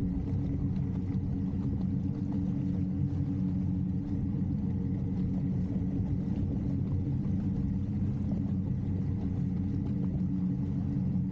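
Sailboat's inboard engine running steadily under way, a low, even hum with no change in speed.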